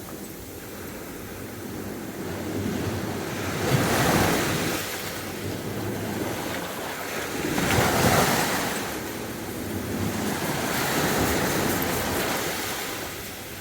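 Sea waves breaking on the beach, each one surging and washing back, with a new break roughly every three to four seconds; the loudest comes about eight seconds in.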